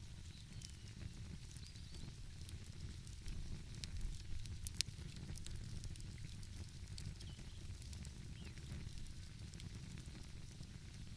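Wood fire crackling with scattered sharp pops, the loudest about halfway through, over a steady low rumble.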